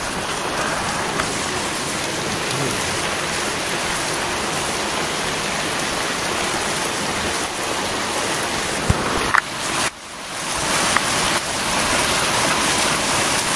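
Steady rain falling during a thunderstorm, an even hiss, with a short click about nine seconds in and a brief dip in level just after.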